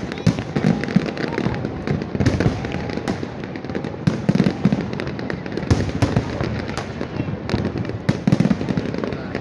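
Aerial firework shells bursting in quick, overlapping succession, a dense run of booms and bangs with crackle between them.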